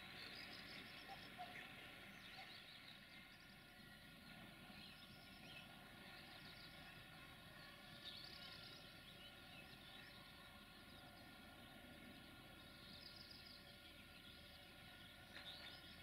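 Near silence, with faint bird calls every few seconds.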